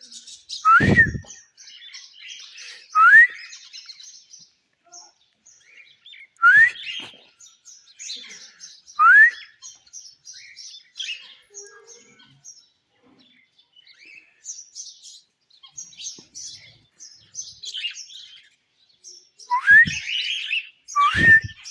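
Pet parrots calling: a short upward-sliding whistled call repeated six times, in two groups a few seconds apart, over continuous high twittering chirps.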